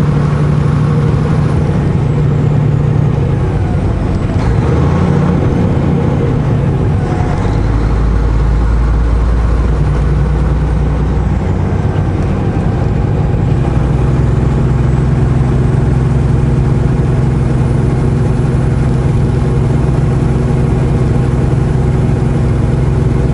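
Semi-truck's diesel engine heard from inside the cab, running steadily as the truck drives at low speed. Its tone changes a few seconds in, a deep low drone comes in for several seconds in the middle, and then it settles back into a steady hum.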